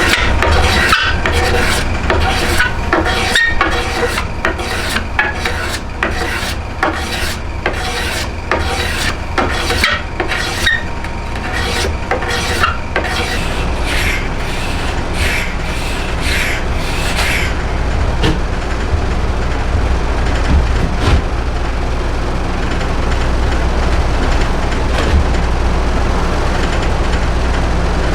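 Rhythmic strokes of a hand tool rasping the wood of a yew bow stave, about two a second, over a steady low rumble. The strokes stop a little past halfway through, leaving the rumble.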